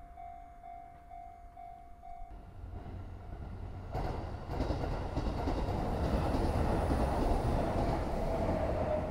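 Electric train passing on the tracks: the rumble of its wheels on the rails builds from about four seconds in and is loudest near the end, with a faint motor whine that drops slightly in pitch. Before it, a repeating warning tone stops about two seconds in.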